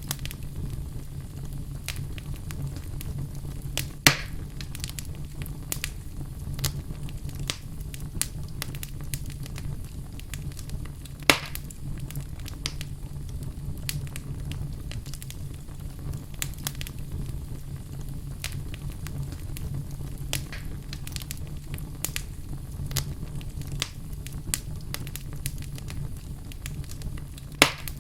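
Wood fire burning in a fireplace: a steady low rumble with scattered crackles throughout and three louder pops, about four seconds in, around eleven seconds and near the end.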